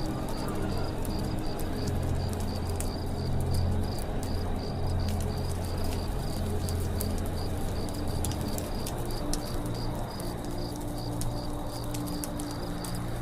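Campfire crackling in irregular sharp pops, over a cricket chirping steadily about three times a second and low, drawn-out tones in the background.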